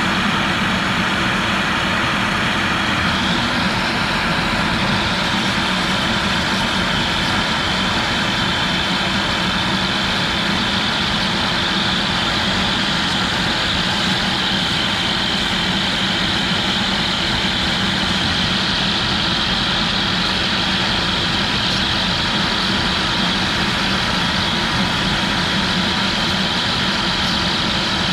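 CNC router spindle running steadily with a 1/8-inch end mill, making a light clearance pass in PVC. A high whine steps up slightly about three seconds in.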